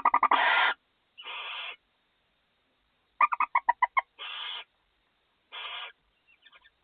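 Barn owls in a nest box giving short rasping hiss calls of about half a second each, four in all. A quick run of about eight ticking chitters comes about three seconds in.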